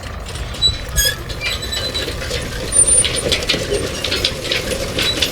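Irregular mechanical clicking and clattering over a steady low hum.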